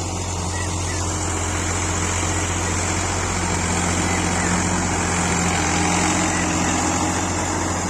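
ACE tractor's diesel engine running steadily at a constant speed, a deep even drone.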